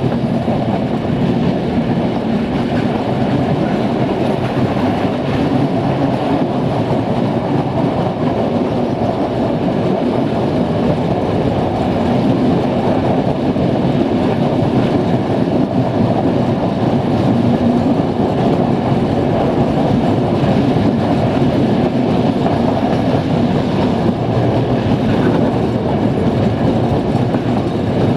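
Passenger train carriages running at speed, heard from an open carriage window: a steady noise of wheels on the rails.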